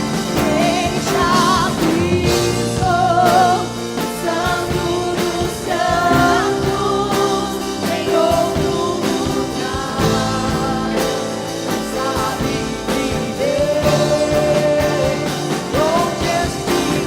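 Live worship band music: a slow worship song with sustained chords and a voice singing wavering melodic lines without clear words, over a band beat.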